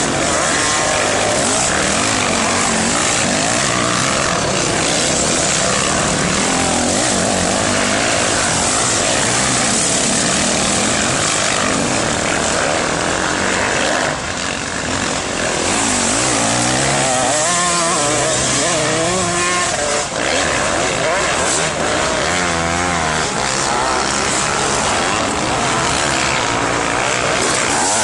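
Several dirt bike engines revving at once, their overlapping pitches rising and falling as the bikes accelerate and back off.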